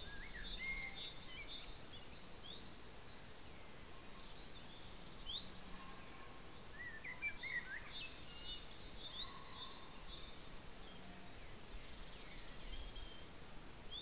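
Wild birds singing and calling: scattered short chirps and brief rising whistles, over a steady background hiss.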